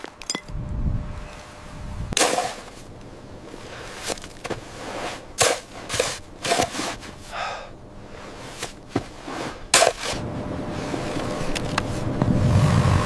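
A series of sharp, hard strikes, about nine of them and irregularly spaced, some with a brief ring. Toward the end a steady rushing noise builds.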